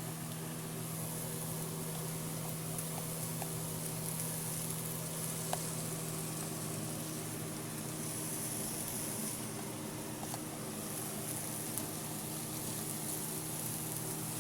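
Chicken pieces frying in oil and spice masala in a pan, a steady sizzle with a few faint clicks, over a constant low hum.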